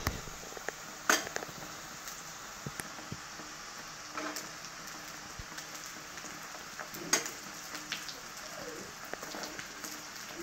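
Diced vegetables sizzling in oil in a stainless steel kadai, with a few sharp knocks of a spoon against the metal pan as cooked rice is added. The loudest knock is about a second in, and another comes about seven seconds in.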